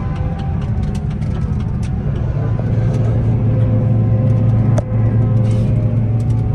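Heavy diesel engine of farm machinery running with a steady low drone that grows louder about two and a half seconds in, with a sharp click near the five-second mark.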